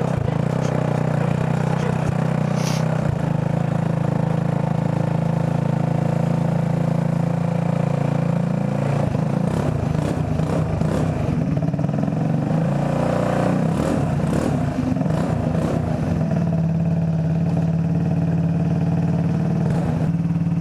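A 10 hp go-kart engine running at a low, steady pace as the kart is driven slowly, its speed rising and falling a little around the middle, with a few short knocks and rattles.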